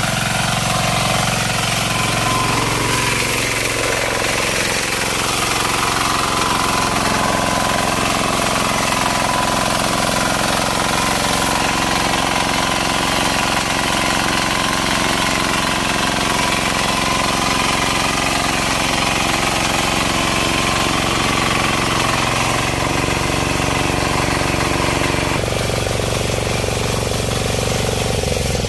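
Kisan Kraft KK-IC-406D power weeder's 9 HP single-cylinder diesel engine running steadily with a hard, knocking beat while the machine works the soil, its sound shifting a couple of times near the end.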